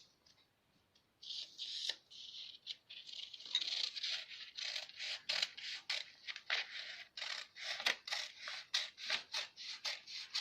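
Tailor's scissors cutting out a paper sleeve pattern: a steady run of crisp snips and paper rustle, starting about a second in.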